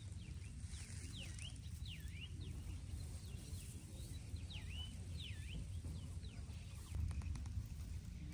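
A bird calling: a string of clear whistled notes, each dipping down in pitch and rising back up, about two a second, over a steady low rumble. About seven seconds in, the rumble swells briefly with a few sharp clicks.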